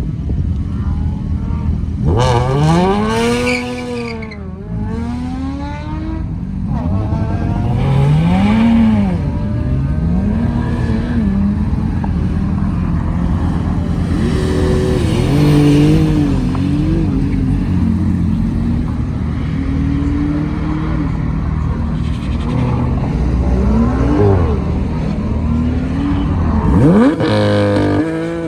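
Car engines revving and accelerating hard, their pitch climbing and dropping again and again, with a sharp rev near the end.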